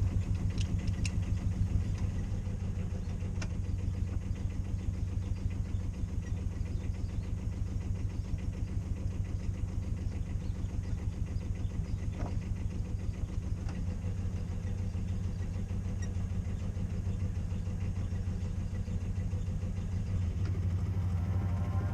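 Sailboat's auxiliary engine running steadily under way, a low, even pulsing. Music comes in near the end.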